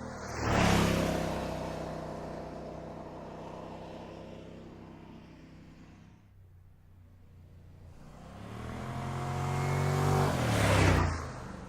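A car engine passing by twice. The first pass peaks sharply just after the start and fades away. The second builds up from about eight seconds in, its engine note rising as it approaches and dropping as it goes by near the end.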